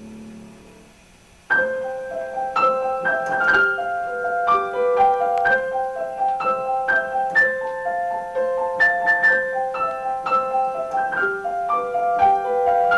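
Music played on a piano-like keyboard: a melody of ringing, sustained single notes that starts suddenly about a second and a half in.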